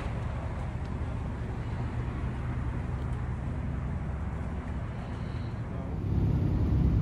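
Car engines idling with a steady low rumble. About six seconds in it jumps to a louder, deeper engine rumble.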